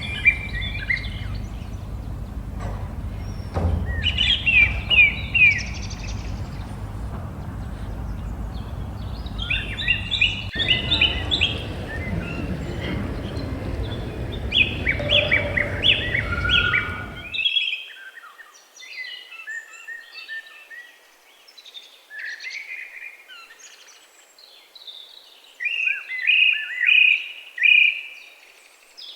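Small songbirds chirping and twittering in short repeated bursts. A steady low rumble runs under them for over half the time, then cuts off suddenly, leaving the birdsong alone with short pauses.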